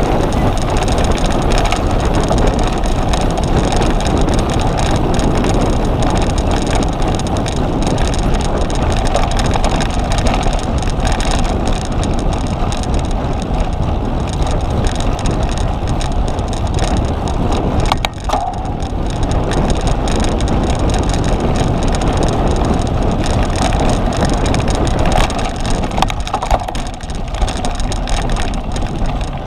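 Cyclocross bike being raced: steady wind buffeting on the microphone over the rattle of the tyres and drivetrain, with a brief lull about eighteen seconds in.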